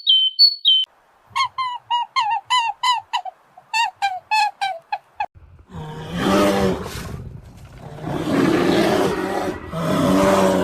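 Animal calls from a sound compilation: a run of about a dozen short, pitched calls, each dipping in pitch, a few per second, then a loud rough roar-like call in three long bursts starting about halfway in.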